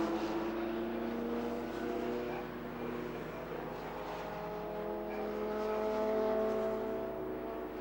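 Engines of a pack of racing saloon cars, several engine notes at once gently rising and falling in pitch, growing louder about six seconds in.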